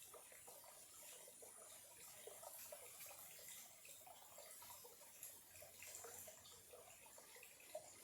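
Faint trickling and gurgling of a small stream, a steady run of many small irregular bubbling notes, with one brief sharper drop or tick near the end.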